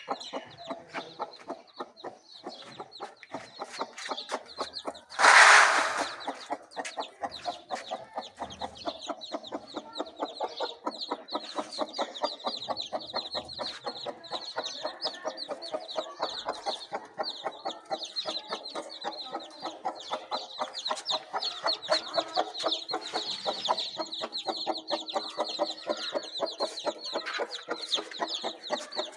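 Indian ringneck parakeet chattering: a fast, steady run of short repeated notes, with one much louder call about five seconds in.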